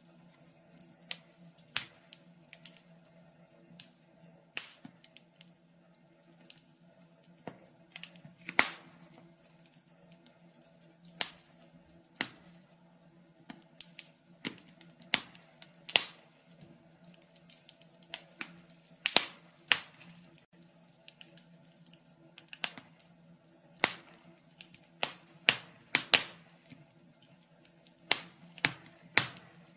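Logs burning in a fireplace, crackling with sharp, irregular pops and snaps, sometimes in quick clusters, over a faint steady low hum.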